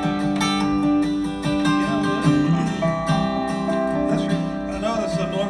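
Acoustic string-band music played live without singing: a strummed acoustic guitar with other plucked string instruments holding and sliding between notes.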